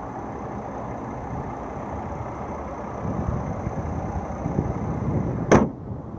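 Steady low rumble with a faint high whine. One sharp click comes about five and a half seconds in, and the whine stops with it.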